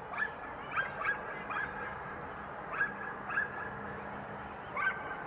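Birds calling in short, slightly rising honking calls, coming in quick groups of two or three, over a faint steady low hum.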